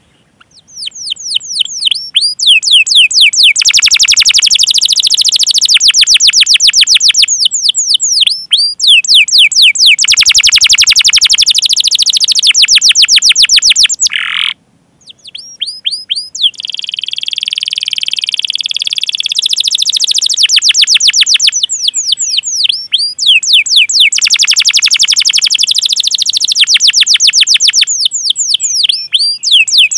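Domestic canary singing: long series of quick down-slurred 'cuit cuit' chirps alternating with very fast rolling trills, a steady buzzing trill for a few seconds past the middle. The song breaks off briefly just after the start and again about halfway through.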